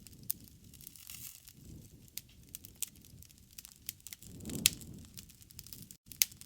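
Campfire crackling: scattered sharp pops over a soft low rush of burning wood. The loudest pop comes about four and a half seconds in, with a brief swell of the low rush around it.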